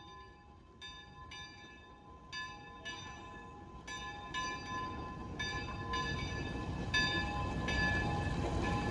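Steam locomotive bell ringing steadily, its clapper striking in pairs about every second and a half, while the rumble of the moving train grows louder.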